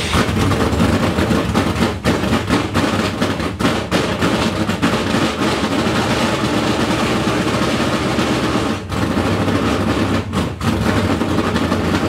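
Dirt late model race car's V8 engine running loud and rough after its first start of the season, stumbling now and then, with transmission fluid in a cylinder burning off.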